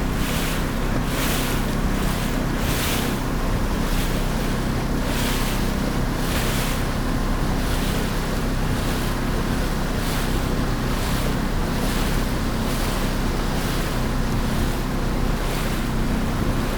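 Wind on the microphone and water rushing past the hull of an Island Packet 32 sailboat under sail, with a steady low rumble and a hissing splash about once a second as the boat moves through the waves.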